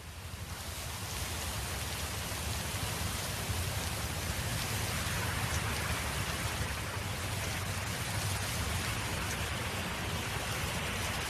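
Wind blowing steadily: a broad rushing hiss with a low rumble beneath it, fading in over the first second or so.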